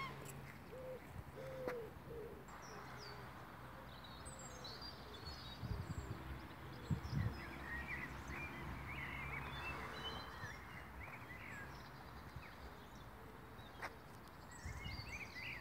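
Small birds chirping and singing over steady outdoor background noise and a low hum, with a few low thumps around the middle.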